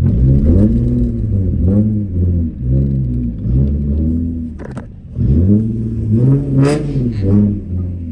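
Car engine revving repeatedly in short blips, its pitch rising and falling again and again, with a brief lull about five seconds in before it climbs again.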